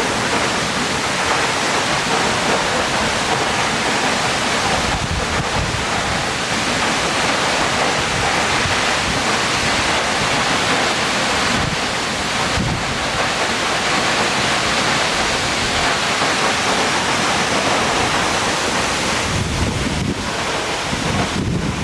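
Steady roar of Diaoshuiyan Waterfall's falling water, heard from within its spray, with gusts buffeting the microphone every few seconds.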